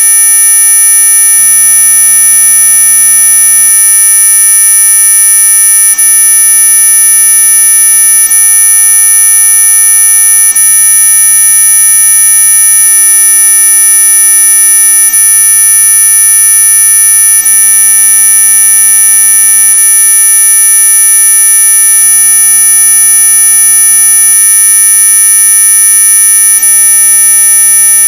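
Electronic mosquito-repellent tone: a loud, steady, high-pitched whine made of several pure pitches sounding together, the strongest very high, unchanging throughout. It is played as a so-called ultrasonic sound meant to drive off mosquitoes.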